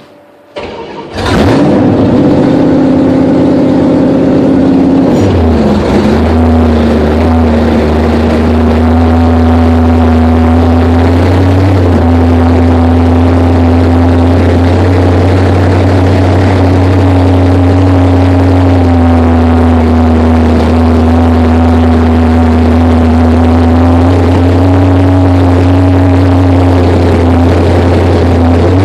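1966 Plymouth Valiant V100's engine, in its break-in run, starting with a sudden loud catch about a second in. It then runs loud and steady at a held speed, with a brief dip in pitch a few seconds after starting.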